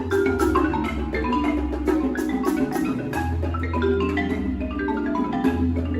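Large marimba orchestra of about a hundred players playing a fast passage: dense, quick mallet notes over long-held low bass notes, with some sharp accented strikes.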